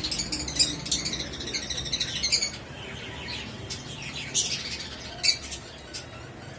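Small birds chirping and chattering: a dense run of quick high calls for the first two and a half seconds, then scattered calls with two louder single calls later on.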